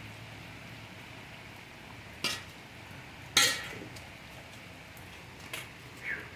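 Steady rain hiss, broken by three sharp clinks about two, three and a half and five and a half seconds in, the middle one the loudest. A short falling chirp comes near the end.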